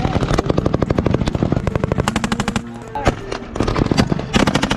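Small-arms live fire: rapid, overlapping bursts of automatic gunfire, the densest runs about the first second and a half and again near the end.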